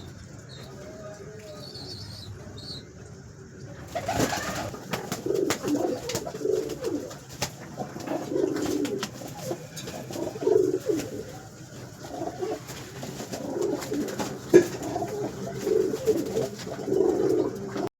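Domestic pigeons cooing over and over, the cooing growing louder about four seconds in, with scattered light clicks and one sharp knock past the middle.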